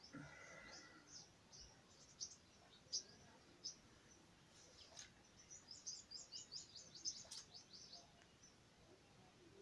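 Small birds chirping faintly: short, high chirps scattered throughout, with a quick run of chirps in the second half.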